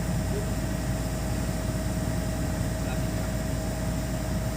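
Hitachi 210 hydraulic excavator's diesel engine running steadily, low and even, with a thin steady tone above it.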